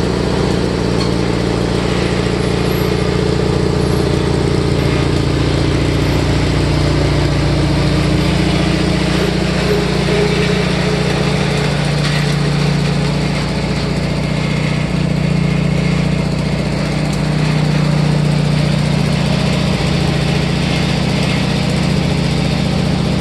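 MTD 18/46 lawn tractor engine running steadily through a dual exhaust, its pitch dipping slightly for a few seconds and then holding.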